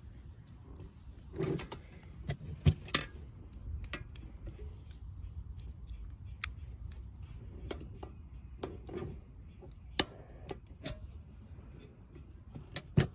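Irregular sharp clicks and taps over a low steady rumble, with the loudest clicks about three seconds in, ten seconds in and just before the end.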